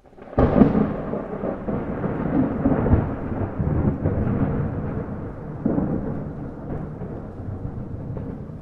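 Thunder rumbling: a sudden loud onset about half a second in, a long rumble, and a second swell near six seconds that dies away slowly toward the end.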